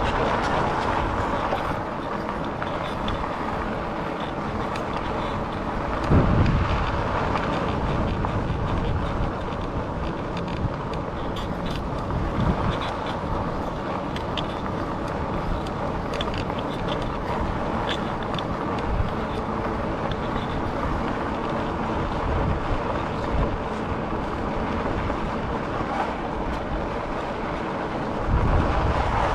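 Riding noise from a 2018 Rad Rover fat-tyre e-bike, a steady rush of tyre and wind noise with a faint hum. A couple of low thumps, about six seconds in and near the end, are bumps in the path.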